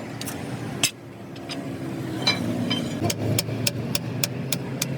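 A motor vehicle engine running steadily, with one sharp click about a second in and, from about three seconds in, evenly spaced sharp ticks about four times a second.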